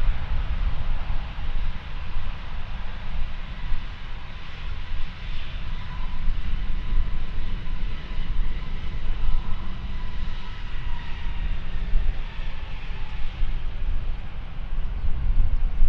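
Jet airliner engines running, a steady noisy rush with a faint high whine over a deep rumble, buffeted by wind on the microphone.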